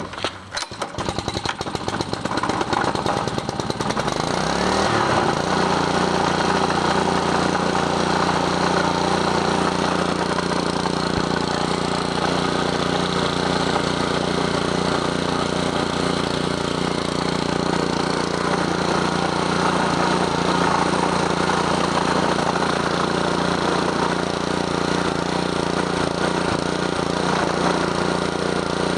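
Honda GC160 single-cylinder overhead-cam engine starting cold on choke, firing unevenly for the first few seconds. About four to five seconds in it picks up speed and settles into a steady run. It is running on the little fuel left in it after the tank was drained.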